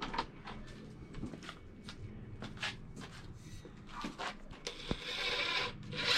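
Scattered light knocks, clicks and scraping of hands-on carpentry work, with a busier stretch of scuffing about four to six seconds in.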